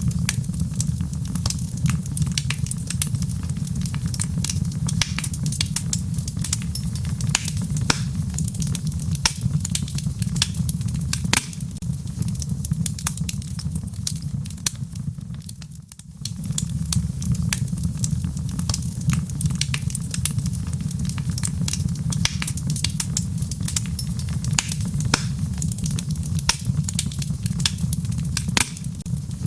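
Wood fire crackling in a fireplace: a steady low rumble of the flames with dense, irregular snaps and pops. It fades briefly about halfway through, then comes back.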